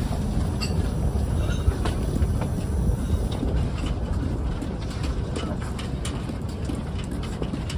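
Narrow-gauge steam locomotive moving slowly along the track: a steady low rumble with scattered short clicks from the wheels and rails.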